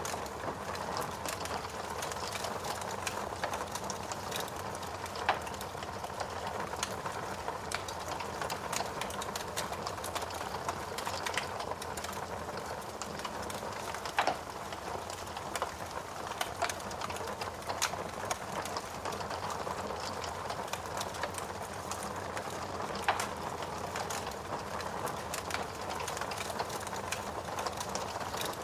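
Wood fire crackling, with irregular sharp pops scattered throughout and a few louder ones, over a steady hiss of rain.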